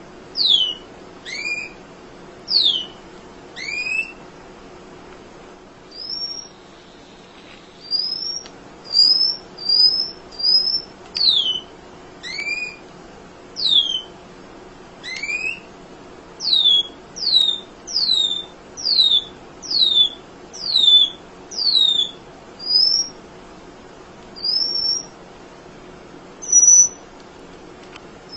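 Emprit (munia) calling: a steady run of short, high chirps, most of them quick downward-sweeping notes, some paired with a lower note, at about one or two a second.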